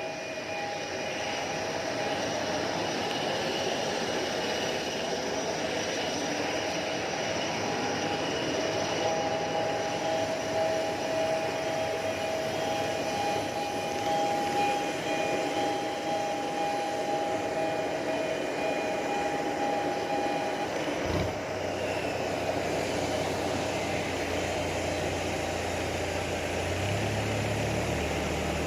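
Jet airliner at the stand running with a steady whine. About three-quarters of the way through there is a short thump, and the sound changes to a lower steady hum that shifts in pitch near the end.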